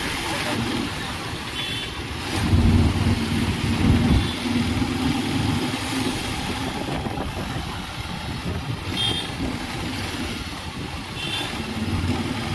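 Bajaj Pulsar 220 motorcycle's single-cylinder engine running while riding, with wind and road noise; the engine swells briefly about two and a half seconds in. A few short high chirps come through now and then.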